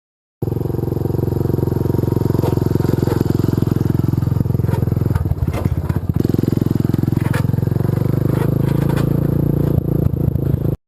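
Single-cylinder four-stroke engine of a Honda ATC185s three-wheeler, big-bored to XR200 size and fitted with an aftermarket Amazon exhaust, running loudly. It starts abruptly about half a second in, then the revs dip and climb back twice, with a few sharp clicks.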